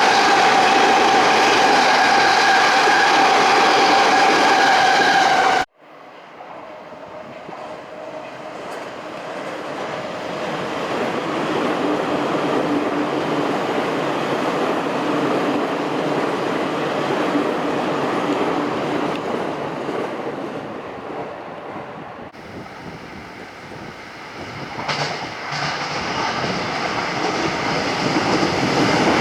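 Electric train on the JR Sobu Line running, with a steady whine over the rolling noise at first. The sound cuts off abruptly about six seconds in, then train rumble builds up and holds. It changes abruptly again a little after twenty seconds and grows louder toward the end.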